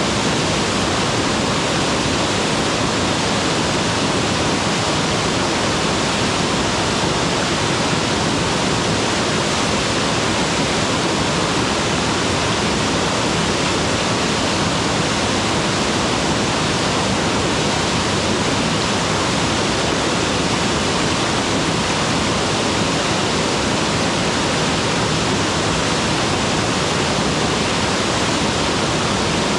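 Mountain waterfall: water pouring and splashing, a loud, steady, even rush with no breaks.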